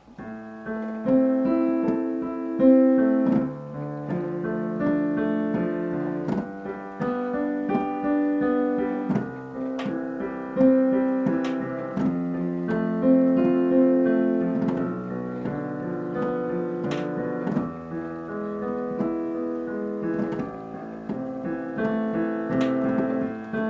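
Piano played with both hands in alternation, left then right, in a flowing repeating broken-chord pattern of single notes, without the sustain pedal.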